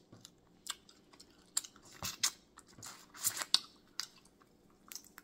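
Chewing crawfish: a string of short, irregular clicks and crunches from the mouth, with the crackle of crawfish shell being peeled by hand near the end.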